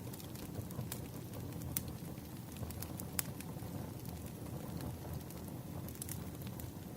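Wood fire crackling: a few sharp pops scattered over a steady low rumble of burning logs.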